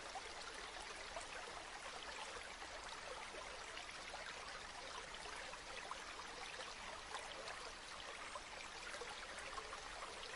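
Flowing river water, a steady babbling rush made of countless small splashes.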